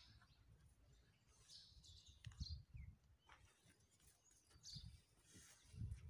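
Near silence with faint bird chirps a few times over a low rumble.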